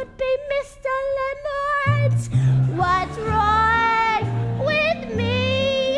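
A woman singing a musical-theatre song over instrumental accompaniment, with vibrato on long held notes.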